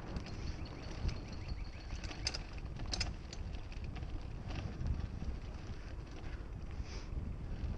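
Mountain bike ridden along a dirt trail: wind buffets the mounted action-camera microphone over the rumble of the tyres, with scattered sharp clicks and rattles from the bike.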